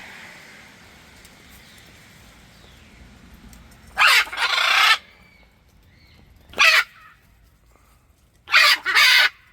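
Parrots giving loud, harsh squawks: a double squawk about four seconds in, a single one near seven seconds, and another double near the end.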